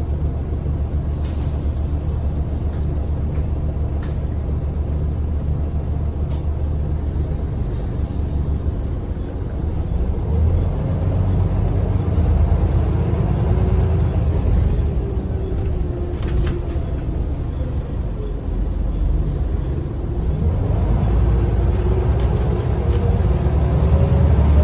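Scania L94UB single-deck bus's five-cylinder diesel engine, ticking over steadily for about nine seconds. It then pulls away, its pitch rising and stepping through the gears, eases off, and accelerates again near the end. A couple of brief clicks can be heard over it.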